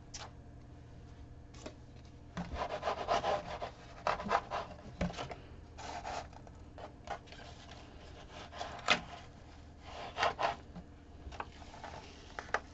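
Irregular rubbing strokes as vinyl is smoothed and pressed down onto a stretched canvas, each stroke lasting up to about a second.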